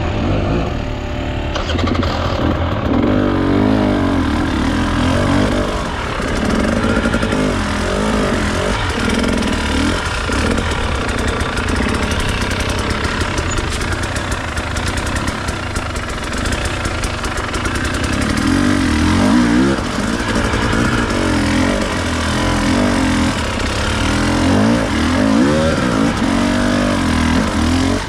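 Enduro dirt bike engine being ridden off-road, its pitch rising and falling constantly as the throttle is worked.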